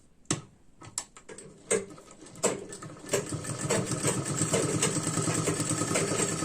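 A few sharp clicks as the fabric is set in place, then a sewing machine starts about three seconds in and runs steadily and fast, stitching a seam along the edge of the folded strip.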